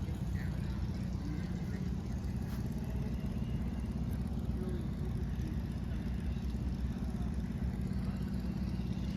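An engine running steadily at an even speed, with a fast, regular low pulse.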